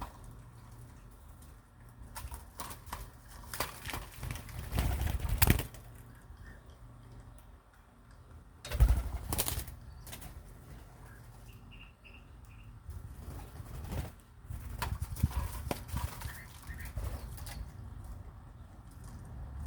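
Birds flapping their wings in several bursts of fluttering and rustling, with one brief high chirp about halfway through.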